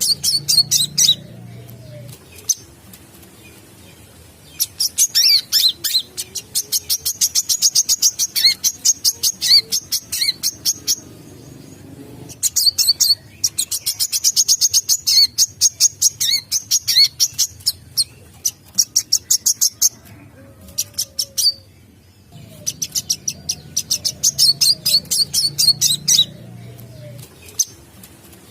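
Brown-throated sunbird singing: bouts of rapid, high-pitched chirping notes, several a second, each bout lasting a few seconds with short pauses between.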